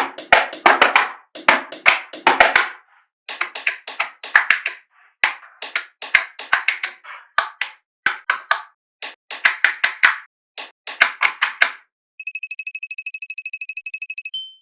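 Small magnetic balls clicking and clattering against each other in quick runs as they are snapped together. Near the end, an electronic tone pulses rapidly at one steady pitch for about two seconds, then ends with a short higher beep.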